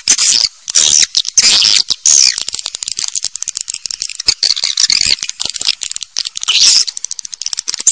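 Swiftlets calling: a dense, unbroken stream of high-pitched chirps and fast clicking rattles. This is the kind of swiftlet call recording played to lure birds into nest houses.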